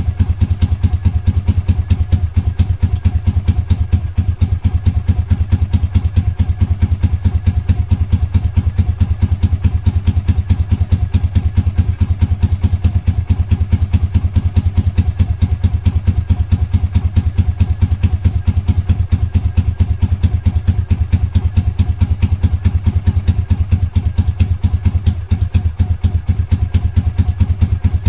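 Honda GB250's air-cooled single-cylinder four-stroke engine running steadily with even exhaust pulses, shortly after being started for the first time in a long while.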